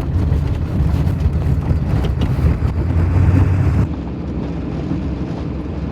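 A 1996 Ford F350's 7.3 Powerstroke diesel truck on the move, a steady low engine drone with wind and road rush. About four seconds in the sound drops suddenly to a quieter low rumble.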